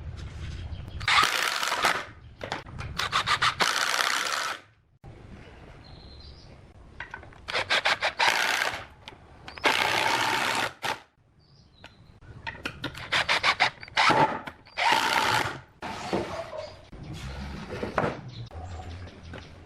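A woodworking tool working on wood in repeated strokes of about a second each, some with a fine rapid rasping texture, separated by short pauses.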